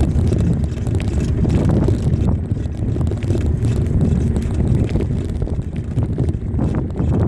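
Steady wind buffeting the microphone of a rider's camera during a bicycle ride, a low rumbling roar with a few light rattling ticks.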